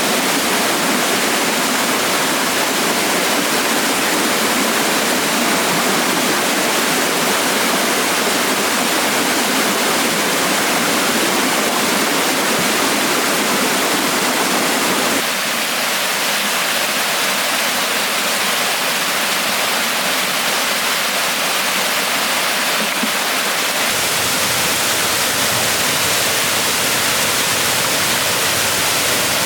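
Steady rushing of flowing water, like a stream or waterfall. Its tone changes abruptly about halfway through and again near the end.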